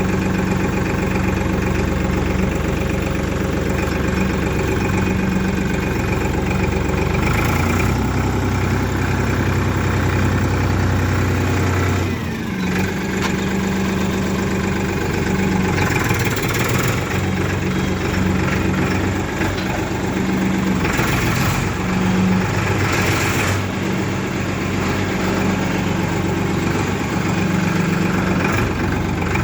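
A tractor's diesel engine runs steadily at a low, even speed. The engine note dips briefly about twelve seconds in, and a few short bursts of hiss come and go.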